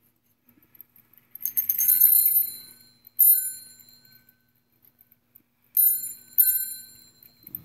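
Small metal bell on a stainless-steel bird toy being jingled: a short jangle about a second and a half in, then single rings near three seconds, near six seconds and again just after, each ringing on and fading.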